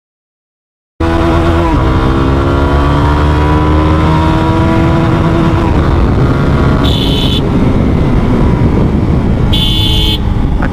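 GPX Demon 165's single-cylinder four-stroke engine accelerating hard under heavy wind noise, cutting in after about a second of silence: the pitch climbs, drops briefly at a gear change, then keeps rising steadily. Two short high-pitched beeps sound in the second half.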